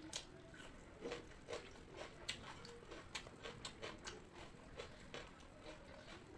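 Close-miked eating sounds: irregular, quick wet clicks and crunches of chewing a mouthful of pakhala bhata, watered rice with puffed rice.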